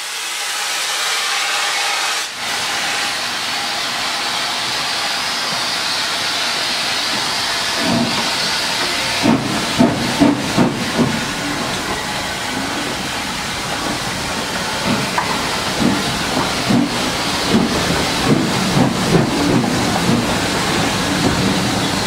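Steam locomotive, the Maunsell N15 'King Arthur' class 4-6-0 No. 30777 Sir Lamiel, with steam hissing steadily. From about eight seconds in, a run of irregular loud low knocks sounds over the hiss.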